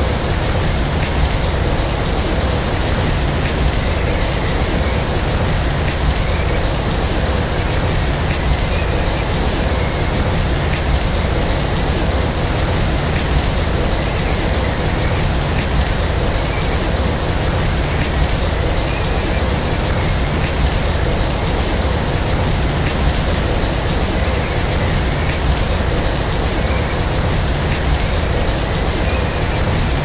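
Steady rain, an even, unbroken hiss with no breaks.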